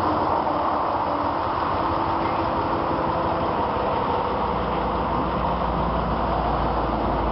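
Heavy tow truck under way towing a semi truck: steady engine and road noise heard inside the cab.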